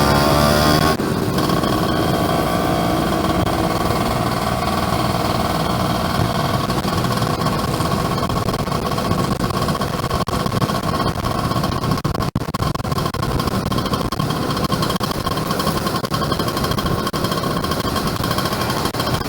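Yamaha F1ZR two-stroke single-cylinder motorcycle engine running under way. Its pitch rises until about a second in, then drops suddenly and settles into a steady cruising run.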